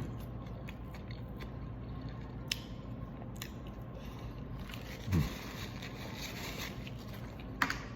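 Close-miked chewing and mouth sounds from eating a mouthful of chicken, with a few small clicks and a short low gliding sound about five seconds in.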